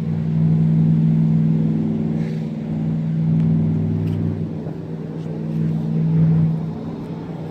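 An engine running at a steady speed: a low, even drone that swells and eases, loudest about six seconds in.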